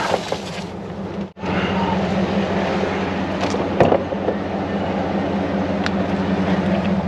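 A motor vehicle's engine running steadily with a low, even hum, broken by a brief dropout about a second in. A short knock comes about four seconds in.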